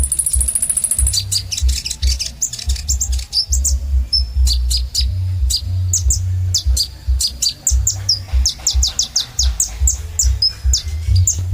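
Kolibri ninja sunbird singing: a fast, high buzzy trill in the first second, then a rapid run of sharp high chirps and short slurred notes, over a pulsing low rumble.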